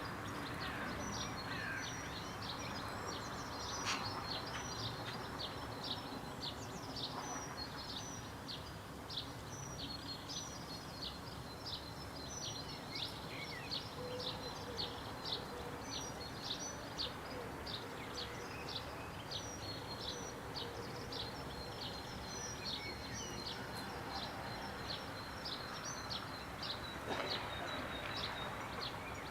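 Small bird chirping over and over, short high notes about one or two a second, over a steady background hiss of outdoor noise.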